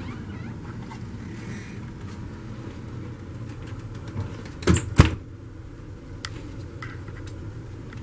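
Steady low mechanical hum, broken about halfway through by two sharp knocks a third of a second apart, then a few faint ticks.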